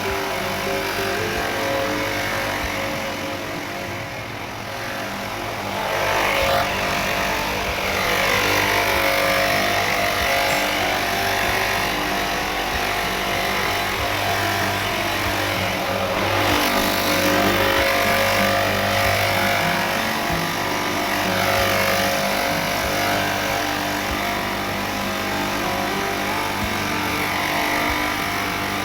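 A motor running steadily, its pitch sagging and rising again a few times.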